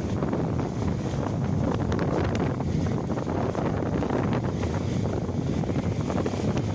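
Wind buffeting the microphone on a moving motorcycle, a steady low rumble of wind and road noise.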